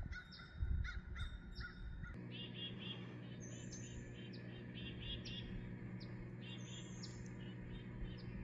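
Wild birds calling and chirping: a run of short repeated notes in the first couple of seconds, then repeated high chirps and quick falling whistles.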